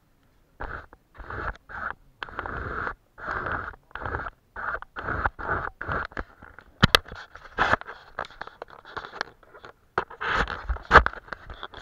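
Paintbrush strokes scraping across paper in a quick series of short strokes, with a few sharp taps in between.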